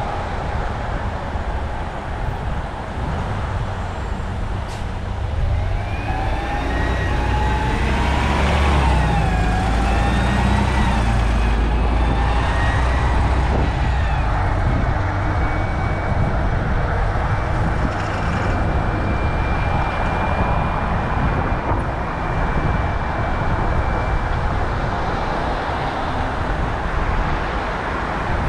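Road traffic and wind rumbling on a moving bicycle's microphone, with an emergency-vehicle siren whose pitch glides up and down from about five seconds in until about fourteen seconds in. A thin steady high tone follows in the second half.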